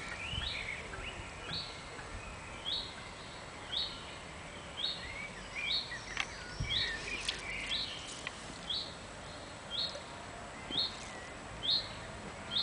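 A bird calling over and over, a short high note about once a second, with a few softer, lower chirps mixed in around the middle.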